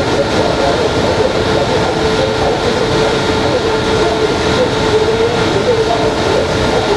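WAP-7 electric locomotive standing at idle, humming steadily: a slightly wavering mid-pitched tone and a few fainter higher tones over an even rushing noise.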